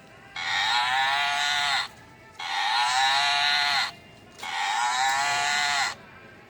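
Animated Christmas toy cow playing a recorded moo through its small speaker, three times, each call about a second and a half long with a wavering pitch. The sound is tinny, with no low end.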